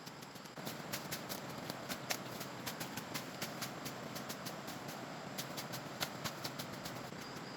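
Irregular light clicks and taps, several a second, over a steady rustling noise that starts about half a second in; near the end a faint steady high chirr of insects comes in.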